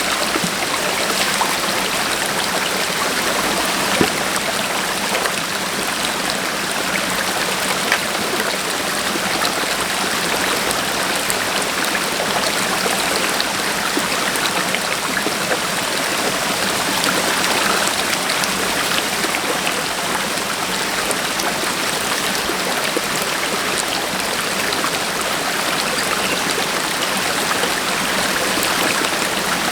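Stream water flowing steadily, with two small knocks about four and eight seconds in.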